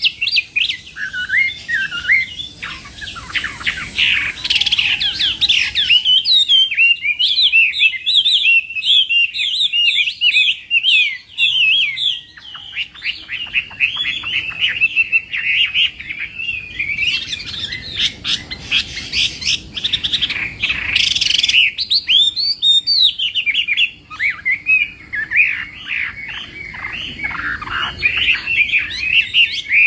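Hwamei (Chinese melodious laughingthrush) singing at full volume: a long, rapid, varied run of whistled notes and trills, with only brief pauses.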